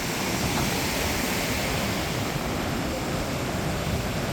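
Steady rushing noise of wind on the microphone mixed with ocean surf, with no distinct events.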